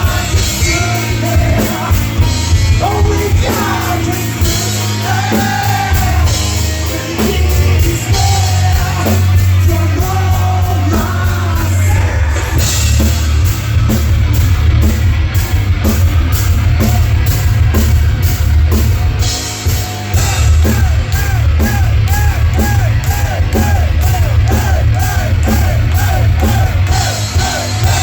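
Live rock band playing loud, with drums, heavy bass and distorted guitar, and a melody line over them. About two-thirds of the way in, the melody turns into a fast, repeating figure.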